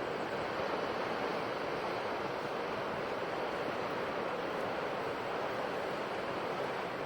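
Ocean surf washing onto a shore: a steady, even rush of breaking waves with no distinct crashes or lulls.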